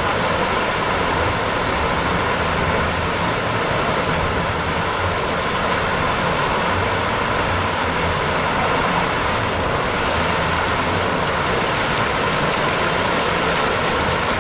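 Steady rushing water, an even noise that holds at one level throughout.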